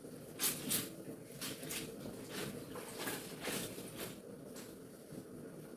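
Wet clothes being rubbed and worked by hand: a run of short, irregular swishing rubs.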